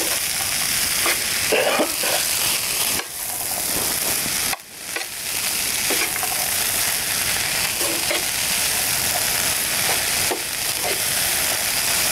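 Chopped vegetables and choma sausage sizzling as they fry in a pan with a little oil. The sizzling drops away briefly about halfway through.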